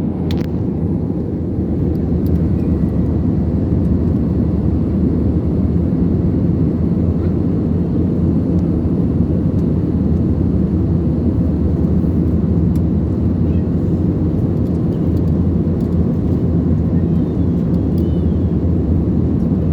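Airliner cabin noise: the steady low rumble of the engines and airflow heard from inside the passenger cabin in flight.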